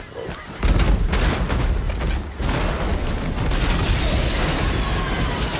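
Canada geese striking an Airbus A320 in a film sound effect: a rapid volley of thuds and bangs begins about half a second in over a deep rumble, then a loud continuous roar of the damaged engines. Faint falling whines near the end, as the bird-struck engines begin to lose thrust.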